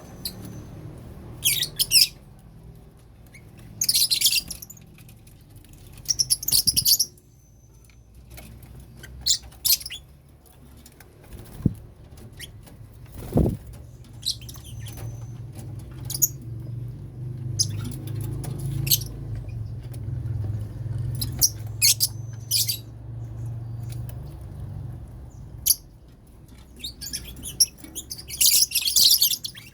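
Lovebirds chirping in short, shrill bursts every second or two, over a low rumble that swells in the middle.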